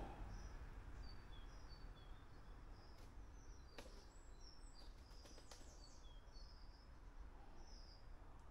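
Faint, short, high bird chirps scattered over a quiet outdoor background hush, with two soft ticks about three and four seconds in.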